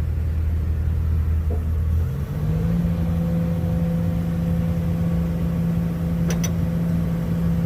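An engine running steadily that steps up to a higher speed about two seconds in and holds there. A short knock comes about six seconds in.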